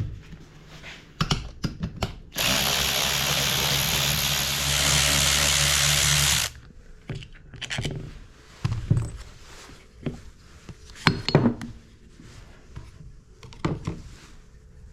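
Power drill or driver running for about four seconds, speeding up partway through and stopping abruptly. Metal clinks and knocks of hand tools come before and after it.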